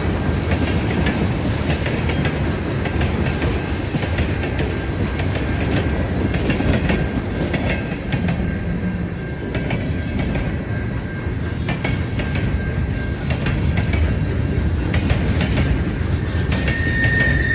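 Railway cars rolling past on the rails in a steady rumble, with high-pitched wheel squeals: one from about eight seconds in lasting roughly three seconds, another starting near the end.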